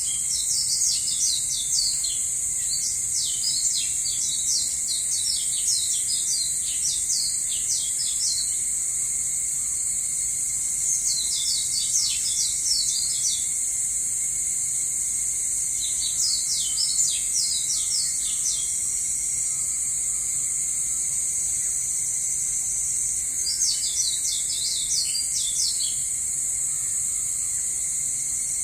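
Steady high-pitched drone of an insect chorus, with a bird singing rapid runs of sharp chirps in four bouts: a long one at the start, then shorter ones about 11, 16 and 24 seconds in.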